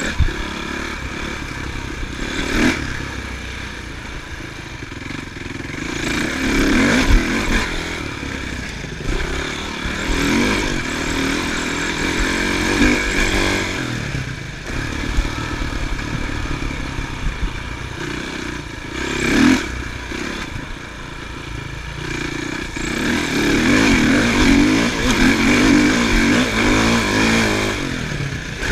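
Motocross bike engines running and revving, the pitch rising and falling with the throttle and getting louder and softer as the bikes come closer and move away.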